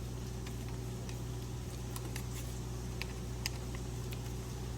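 Light, irregular clicks of Fiskars sewing scissors being reassembled, the steel blades and pivot screw being fitted and tightened by hand, over a steady low hum.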